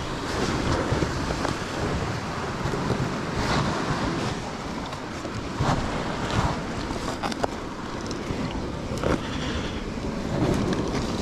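Ocean waves washing against coastal rocks, with wind buffeting the microphone. Short clicks and knocks are scattered through it.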